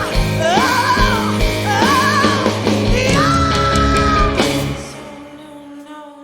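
Female blues-rock singer belting over her band, ending on one long held note; the band stops about four and a half seconds in, leaving a faint fading tail.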